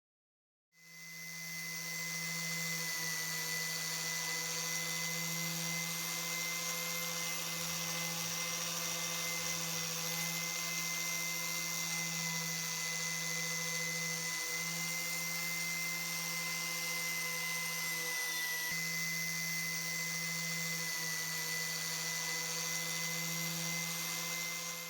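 Small electric power tool running steadily at constant speed, with a low motor hum and a thin high whine. It starts abruptly about a second in and keeps an even pitch throughout.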